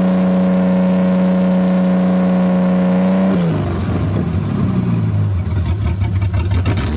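1984 Toyota Cressida engine running at high, steady revs with its throttle stuck open. About three and a half seconds in, the revs drop suddenly and it runs rough and uneven at a lower speed, then picks up again at the very end.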